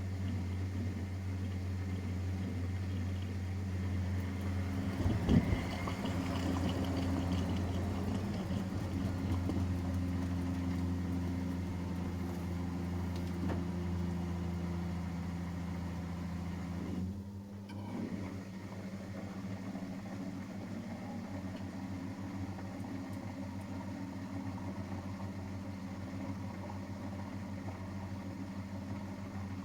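Miele Professional WS5436 washing machine running with a steady motor hum, and a single knock about five seconds in. Around seventeen seconds in the hum cuts out abruptly, leaving a quieter steady hum.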